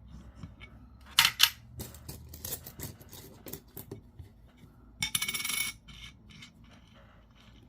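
Jefferson nickels being handled, clicking against each other and a tray, with two sharp clicks about a second in and a brief jingle of coins rattling together about five seconds in.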